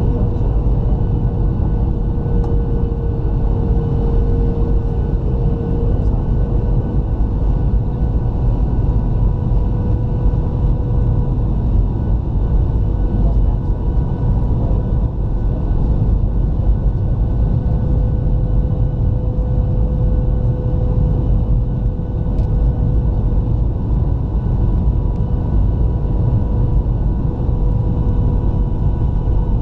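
Cabin noise inside a Boeing 737-700 airliner: a steady, loud rumble of airflow and its CFM56-7B jet engines, with an even engine whine held on a few steady tones.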